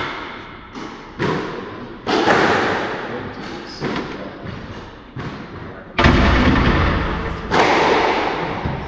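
A squash ball struck back and forth: about seven sharp hits, each ringing on in the court, the heaviest and deepest about six seconds in.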